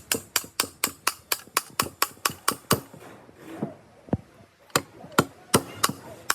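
Hand hammer tapping on a metal part: quick, even strikes about four a second, then a pause and a few slower single strikes.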